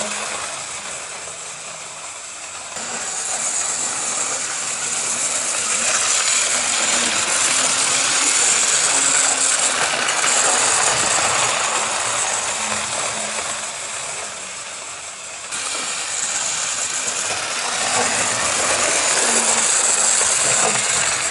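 OO gauge Mainline Railways 2251 class 0-6-0 model locomotive running on the layout track, its small electric motor whirring and wheels rattling on the rails, growing louder and quieter by turns as it moves round, with sudden jumps in level about three seconds in and about fifteen seconds in. The model is struggling to run smoothly.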